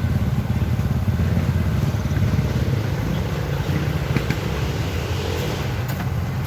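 Off-road trail motorcycle engines running with a steady, rapid low beat.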